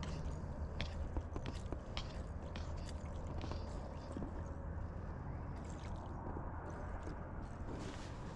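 Wading through a muddy creek in waders: squelching, sloshing steps with irregular clicks and knocks, over a steady low rumble.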